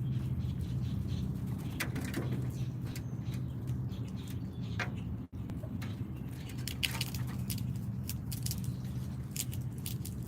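Backyard bird-feeder sounds: scattered sharp clicks and taps of birds and small animals at the feeder, with bird wing flutters, over a steady low outdoor rumble. The sound cuts out for an instant about halfway.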